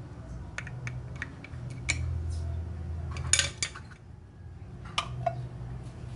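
Washing machine inlet hose fittings and faucet adapter being handled and fitted together: a series of sharp clicks and clinks of hard parts, with a quick cluster of them about halfway through.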